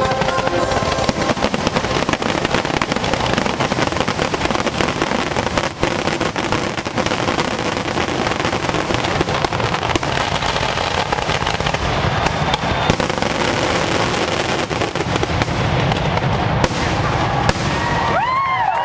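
Fireworks finale barrage: a dense, unbroken crackling of many shells bursting at once, loud and even throughout.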